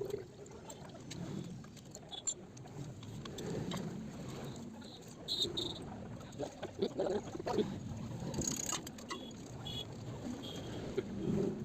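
Faint, scattered clicks and clinks of small metal parts and tools being handled while a motorcycle engine's timing chain and tensioner parts are taken out, with a few brief ringing metallic tinks.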